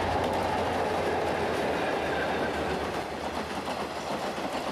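Diesel locomotive-hauled passenger train running past, a steady rolling noise of wheels on rails that eases slightly over the second half.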